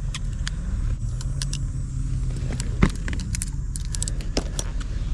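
Low, steady rumble of motor traffic with a vehicle engine note that drifts slightly in pitch, under a scatter of short sharp clicks and rattles from fishing gear being handled.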